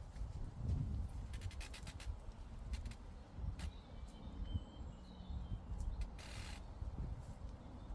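Meadow ambience: wind rumbling low on the microphone, faint bird chirps around the middle, and scattered small clicks and a brief rustle about six seconds in.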